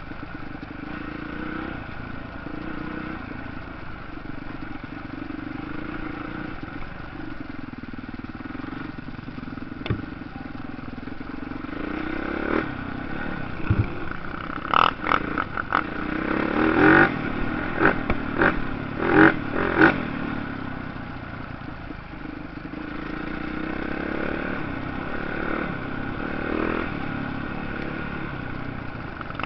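Motocross dirt bike engines running steadily, with a cluster of short, louder bursts, like quick throttle blips, a little past the middle.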